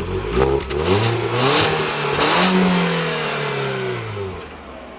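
2014 Ford Fiesta's 1.6-litre four-cylinder engine revving: the pitch climbs in a couple of steps to a peak about two and a half seconds in, then falls smoothly back to idle near the end.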